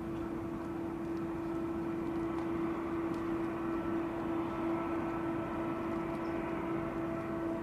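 Airbus A350-941's Rolls-Royce Trent XWB jet engines running as the airliner passes, a steady noise carrying a strong steady tone that grows slightly louder.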